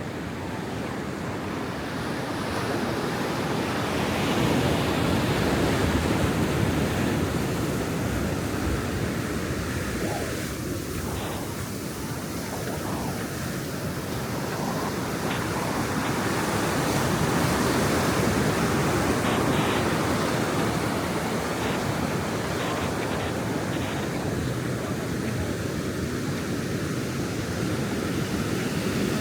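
Ocean surf breaking and washing up a sandy beach, a steady rush of waves that slowly swells and eases over the seconds.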